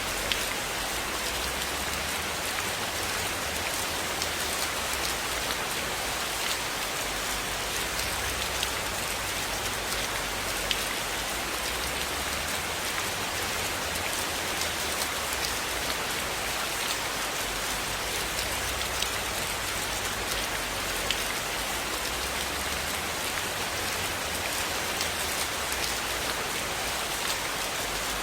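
Steady rain falling on a surface, an even hiss with scattered faint ticks from individual drops.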